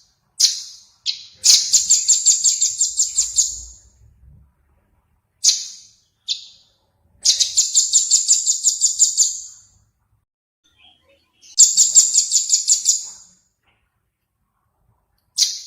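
Recorded song of a small songbird: a few short high chips, then a fast trill of about five notes a second lasting around two seconds. The phrase comes three times, with pauses between.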